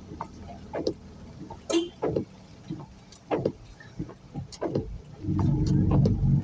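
A vehicle travelling on a road: a run of short knocks and bumps, then a louder engine rumble from about five seconds in.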